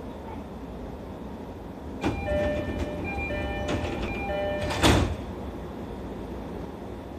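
E531 series commuter train's sliding doors closing: the door chime repeats for a couple of seconds, then the doors shut with a loud thump about five seconds in, over the steady hum of the stopped train.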